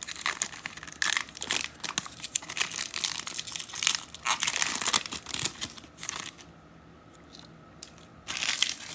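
Foil trading-card packs being torn open and their wrappers crinkled, in dense irregular bursts of tearing and crinkling. It eases off about two-thirds of the way through, with one more short crinkle near the end.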